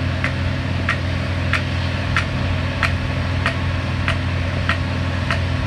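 Vehicle engine idling steadily, with a sharp tick repeating evenly about three times every two seconds.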